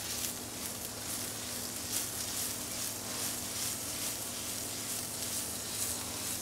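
Chanterelle mushrooms frying in butter in a pan: a steady sizzling hiss full of fine crackles, with a faint low hum underneath.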